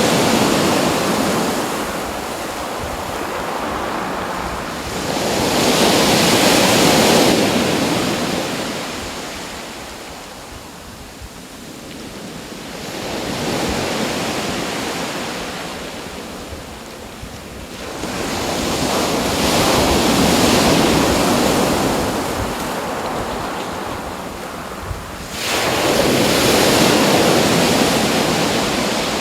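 Ocean waves breaking and washing in. The surf swells and ebbs about every six to seven seconds, with a sharper rise near the end.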